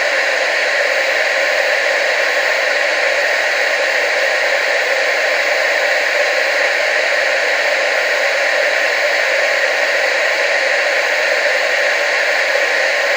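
Steady TV static hiss, even and unchanging, with most of its energy in the mid and upper range and almost no bass.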